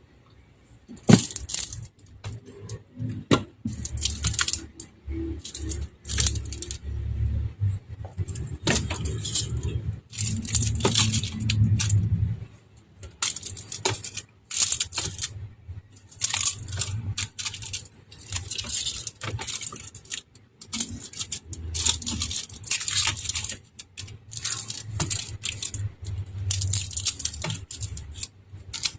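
Groceries and packaging being handled and put away: irregular clinks, rattles and rustling of containers and bags, with occasional low bumps.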